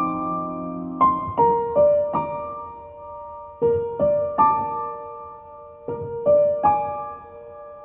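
Background piano music: slow, gentle notes struck in small groups, each ringing and fading.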